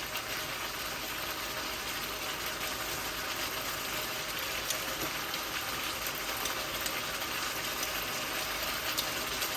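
Quail stir fry in sauce bubbling and sizzling steadily in the pan on the stove, with a few faint pops.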